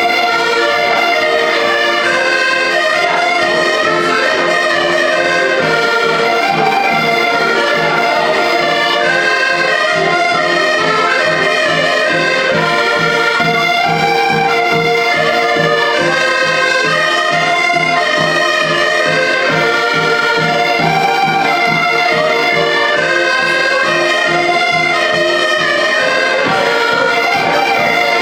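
Band music: several instruments playing a melody together over a steady, evenly repeating beat.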